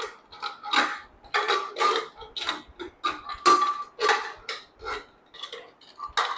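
Irregular metal clanks and clinks with a short ring, a pressure cooker's lid being worked loose and lifted off after the steam has died down; it takes several tries to get it open.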